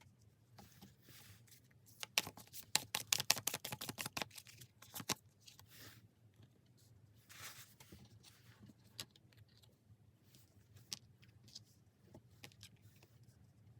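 Tarot cards handled by hand: a quick run of crisp card snaps lasting about three seconds, typical of shuffling, followed by scattered soft clicks and slides of cards.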